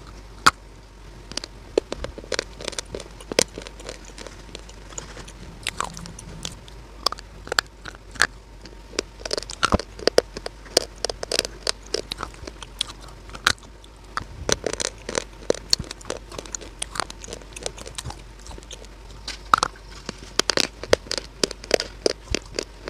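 A hard chalky clay piece, such as a slate pencil or multani mitti cube, bitten and chewed right at a clip-on microphone: a close, dense run of sharp crunches and crackles.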